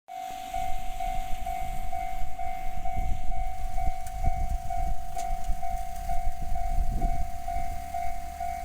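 Japanese railway level-crossing warning bell ringing, an even electronic ding about twice a second, over a low rumbling noise.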